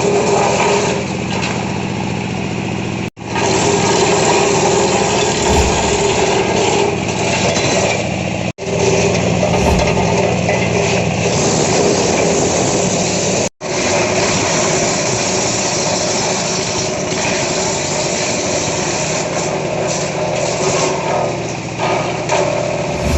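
Wood crusher machine running steadily, with a dense mechanical noise that cuts out abruptly three times for a split second and comes straight back.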